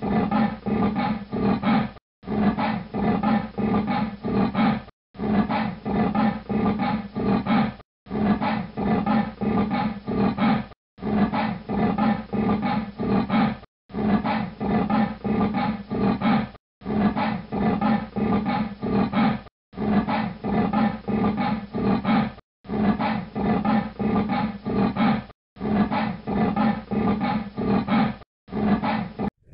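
Cheetah calling in a rhythmic series of low, pitched pulses, several to each breath. The same short call of about three seconds plays over and over, with brief dead-silent gaps between repeats.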